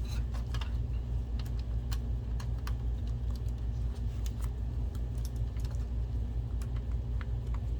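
Scattered light clicks and taps of plastic parts being handled and fitted as a projector's top cover and keypad go back on, over a steady low hum.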